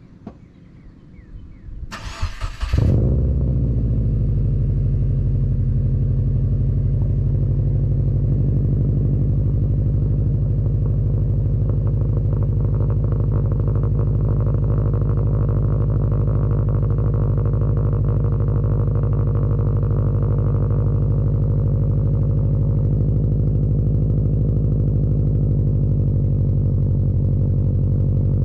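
Subaru WRX's turbocharged EJ255 flat-four, fitted with an Invidia N1 cat-back exhaust, cranked by the starter for under a second and catching about three seconds in with a brief flare. It then settles into a steady, deep idle rumble heard close to the exhaust.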